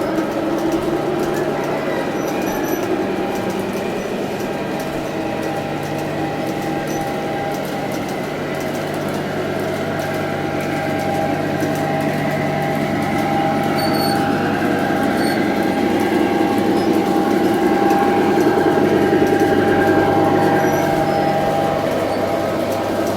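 Garden-scale model diesel train running along its track: a steady hum with a few constant tones. It grows louder as the train nears, peaks about three quarters of the way through, then eases off.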